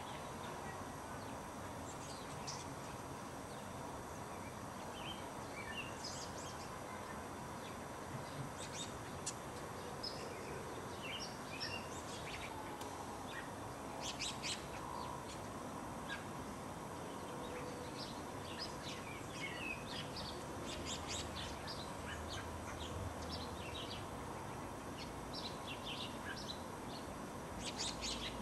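Birds chirping: many short, high calls scattered throughout, more of them in the second half, over a steady background hiss.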